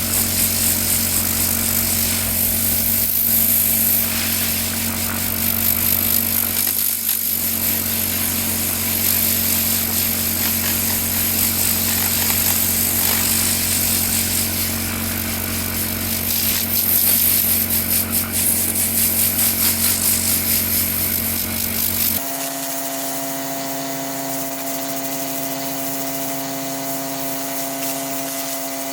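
A power tool's motor running steadily with a constant hum. About 22 seconds in, the sound switches abruptly to a different steady motor hum with less low rumble.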